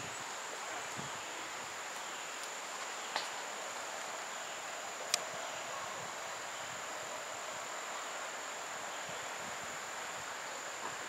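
Insects chirring in one steady high-pitched tone over an outdoor background hiss, with two sharp clicks about three and five seconds in.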